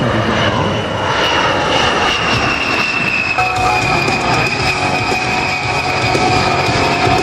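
An A-10 Warthog's twin General Electric TF34 turbofan engines as the jet flies past: a steady loud rush with a high whine that slowly falls in pitch.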